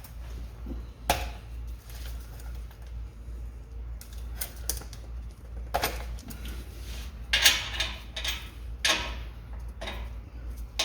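Metal hand tools and exhaust hardware clinking and clicking: sockets and wrench being handled on the exhaust flange nuts, in irregular sharp knocks with a small cluster a little past the middle. A low steady hum runs underneath.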